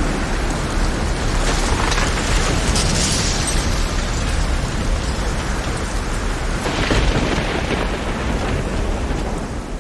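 Heavy rain over a rough, stormy sea: a dense, steady wash of noise with a deep rumble underneath and louder surges about two, three and seven seconds in.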